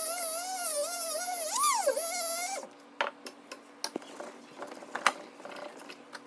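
A high, wavering whine, most likely an animal's, that bends up and down in pitch and cuts off suddenly about two and a half seconds in. Scattered light clicks and taps follow.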